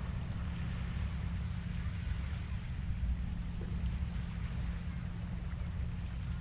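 Gentle Atlantic surf on a sandy beach: a steady low rumble under a soft wash of hiss. The waves are small and quiet with the tide partly out.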